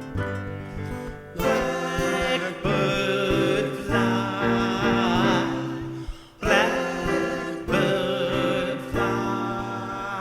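Acoustic guitar playing a plucked instrumental passage, with a wordless sung melody of held, wavering notes over it.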